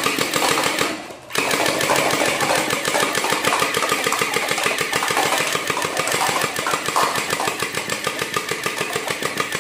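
A battery-powered toy M416 machine gun firing on full auto, its motor and firing mechanism making a rapid, steady rattle. The rattle breaks off briefly about a second in, then resumes.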